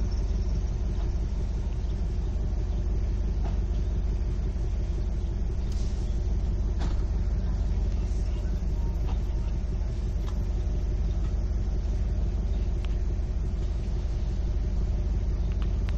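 Vehicle engine idling steadily, heard from inside the cab as an even low rumble.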